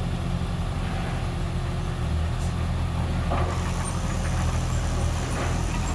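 Heavy earthmoving machine's engine running steadily, its low rumble growing stronger about two seconds in, with scattered clanks in the second half.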